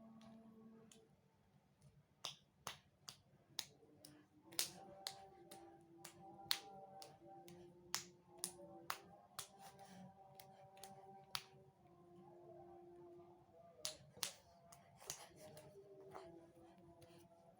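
A baby clapping its hands: a run of sharp, irregular claps, some single and some in quick pairs, that stops about three seconds before the end, over soft background music.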